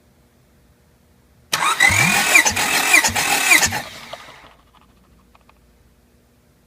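Honda F23A 2.3-litre four-cylinder engine turned over by its starter motor for about two seconds, a whining crank with regular compression strokes, as in a compression test; it does not fire and spins down.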